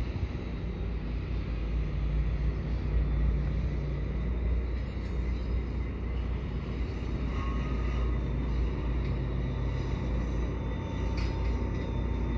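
Commuter train of Bombardier multilevel coaches backing slowly along the track, pushed by its F59PH diesel locomotive: a steady low rumble.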